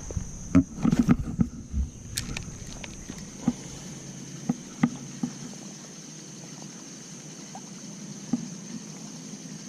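Shallow river water sloshing and trickling, with a cluster of small knocks and clicks in the first couple of seconds and a few single sharp ticks after.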